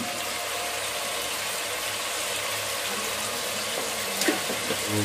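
Onion and tomato tadka sizzling in oil in a kadai on the gas burner, a steady hiss, with a light tap about four seconds in.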